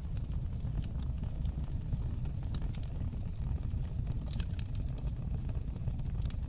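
Fire burning in a fireplace: a steady low rumble of flames with frequent small crackles and pops, a quick run of sharper crackles about four seconds in.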